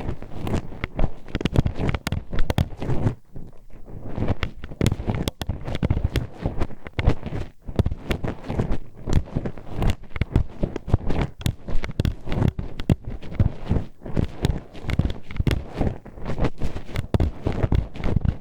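A hairpin poked into and scraped around a microphone's ear, making a dense run of clicks, knocks and scratchy rubbing, several a second. There are brief lulls about three and a half seconds and seven and a half seconds in.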